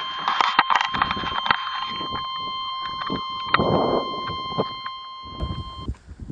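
A continuous high electronic tone, steady in pitch, that stops abruptly near the end, with rustling and clicking handling noise throughout.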